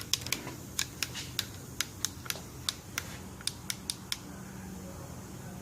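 A portable work light being handled, its switch clicked over and over: about fifteen sharp, irregular clicks over roughly four seconds, then they stop.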